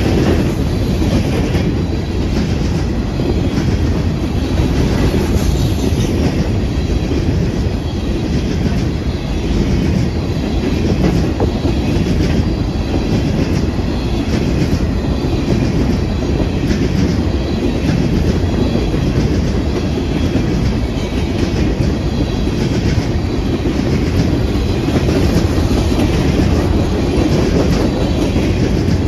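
Train cars rolling steadily past on the rails: a continuous wheel-on-rail rumble with the clickety-clack of wheels over rail joints.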